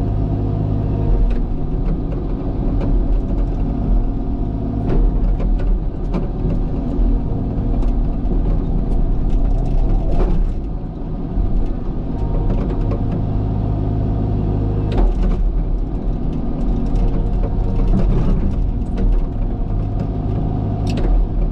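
Diesel engine of a heavy earthmoving machine running steadily as it works, its note shifting slightly from time to time. Occasional short clanks or knocks come through over it, several times.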